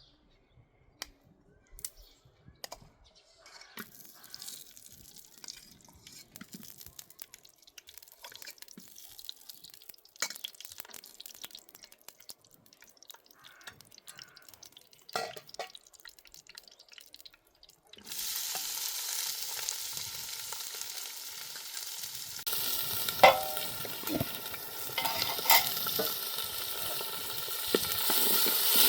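Light clicks and knocks of a utensil on cookware. About eighteen seconds in, food starts sizzling suddenly in hot oil in a pan, and the sizzling grows louder a few seconds later, with sharp clicks of a utensil against the pan.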